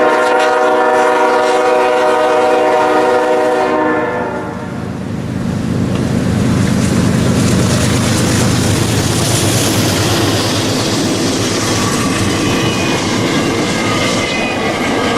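A diesel freight train led by a GE ES44DC locomotive sounds one long multi-note horn blast, which ends about four seconds in. The locomotives and freight cars then roll past with a loud, steady rumble and rattle of wheels on rail, and faint thin high tones creep in near the end.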